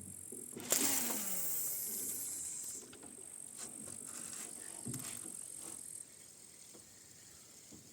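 Rowboat oars working: an oarlock creaks in a drawn-out squeak that falls in pitch, with the splash of an oar stroke, then a few light knocks of the oars in the oarlocks.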